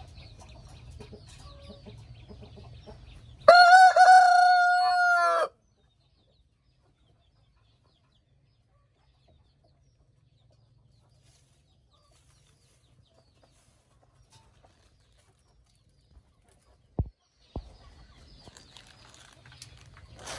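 A rooster crows once, a loud, steady-pitched crow of about two seconds, a few seconds in, over faint hen clucking and a low hum. Then the sound drops to near silence for about ten seconds, broken by two sharp clicks, before the faint clucking returns near the end.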